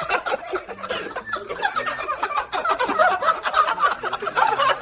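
Rapid, choppy cackling vocal sounds, laughter-like, running on without words.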